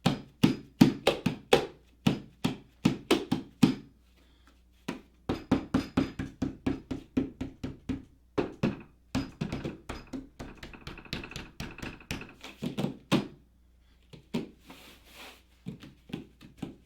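An 8-ft folding table, dampened with towels stapled onto it, struck rapidly and repeatedly by hand: runs of short knocks, about four or five a second, with little ringing after each and a pause about four seconds in. The towels are meant to cut the table's loudness and reverberation when hit.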